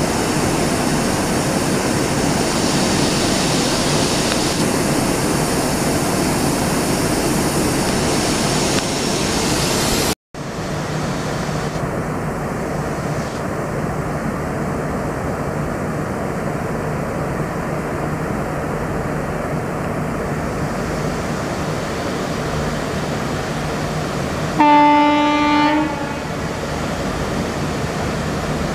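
Duronto Express coaches rush close past at speed in a steady loud rush of wheel and air noise. After an abrupt cut comes the quieter steady rumble of an approaching train. Its locomotive sounds one horn blast of about a second, the loudest sound, a few seconds before the end.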